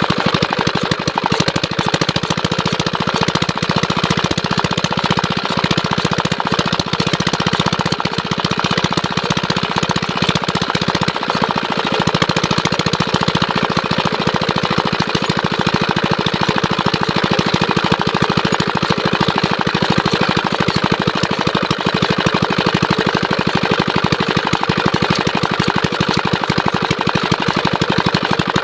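Small Chinese diesel engine driving a water pump, running steadily with a rapid, even beat.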